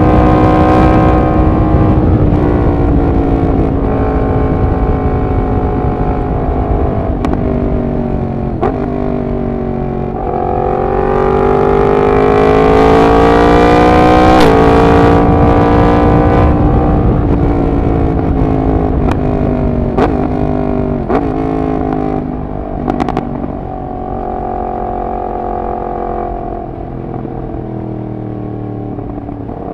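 Yamaha MT-10's crossplane inline-four with a de-catted exhaust, ridden on the road. The engine note sinks at first, then climbs hard for about four seconds midway and drops suddenly at an upshift before settling lower. A few sharp cracks sound along the way.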